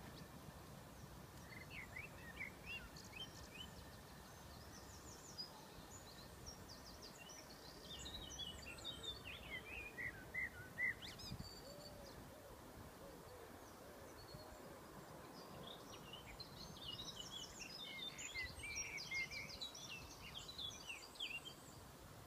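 Small birds calling in several bursts of quick, high twittering chirps, over a low steady background rumble.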